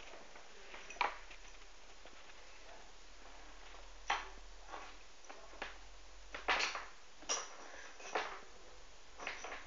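Light, sharp clicks and taps of small hard things, a handful at irregular intervals, bunched between about six and eight and a half seconds in.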